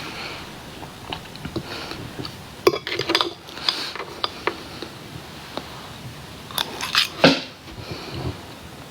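A person eating close to the microphone, chewing and biting, with clusters of sharp clicks and clatter about three seconds in and again around seven seconds.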